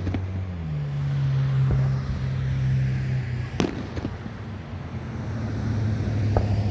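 Fireworks exploding overhead: one sharp loud bang about three and a half seconds in with a smaller pop just after it, and fainter pops elsewhere. A steady low drone runs underneath.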